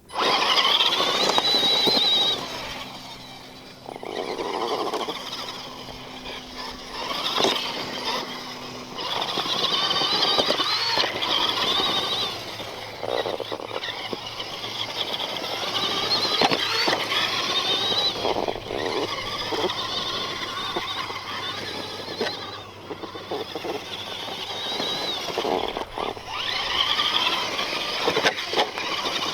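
Axial SMT10 Grave Digger RC monster truck driving: its electric motor and all-metal gear transmission whine high, rising and falling with the throttle, over tyre noise, with a few sharp knocks along the way.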